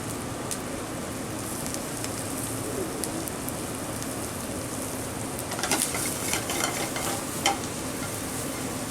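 Shallots sizzling as they sauté in a hot pan, steady throughout, with a short run of utensil clinks and scrapes against the pan from about five and a half seconds in, one sharper clink near seven and a half seconds.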